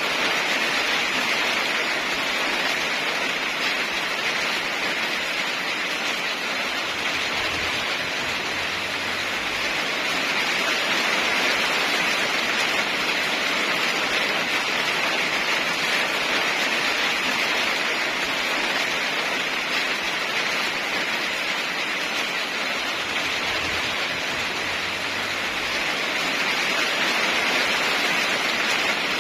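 Steady heavy rain falling, an even hiss that swells and eases gently.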